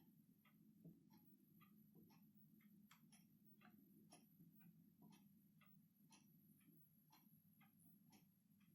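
Small birds, tits, pecking seeds at a glass window feeder: faint, irregular sharp taps of beaks on the glass and seed, two or three a second.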